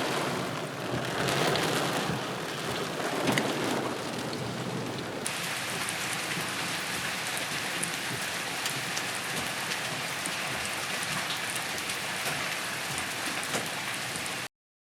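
Heavy rain falling in a steady hiss. The sound changes abruptly about five seconds in, when scattered ticks of drops appear, and it cuts off just before the end.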